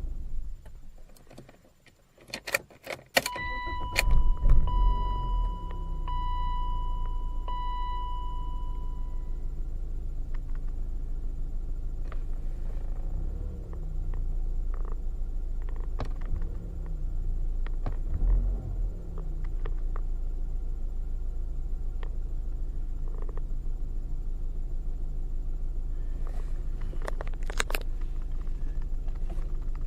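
BMW 318ti's M44 four-cylinder engine is switched off, the key clicks, and it restarts about four seconds in while a chime sounds four times. It then settles into an uneven idle whose speed wavers: the rough idle caused by a failing camshaft sensor.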